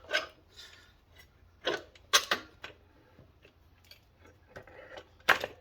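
Metal tools and bike parts clinking and knocking as a component is taken off, a handful of sharp clicks with the loudest around two seconds in and near the end.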